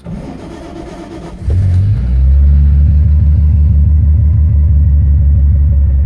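Holden grey motor, an inline six, turned over by a red Commodore starter motor fitted with a Ford Falcon solenoid for about a second and a half. The engine then catches and keeps running loudly and steadily with an even pulse.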